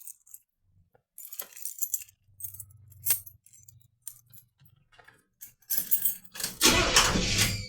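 Keys jangling, with scattered clicks and rustles, then a louder rushing noise lasting about two seconds near the end.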